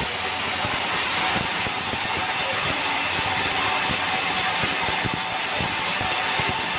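A sawmill bandsaw rig running, a steady mechanical din with dense rattling clicks throughout.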